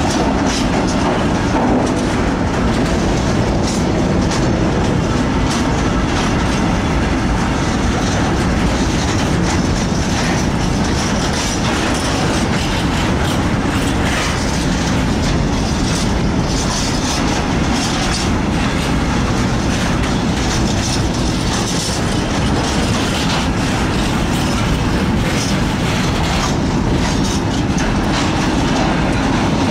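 Freight train wagons rolling past close by: a steady rumble of steel wheels on the rails, with repeated clacks as the wheels run over the rail joints.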